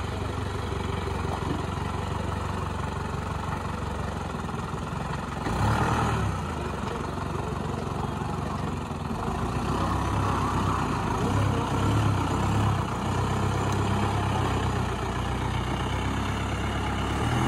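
Jeep engine running steadily while the jeep is stuck in mud, getting louder briefly about five and a half seconds in and again from about ten seconds on.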